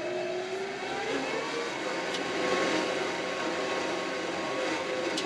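Kioti RX7320 tractor's diesel engine working under load while pushing snow with a scoop plow. Its pitch rises over the first second or so, then holds steady, with a couple of sharp ticks.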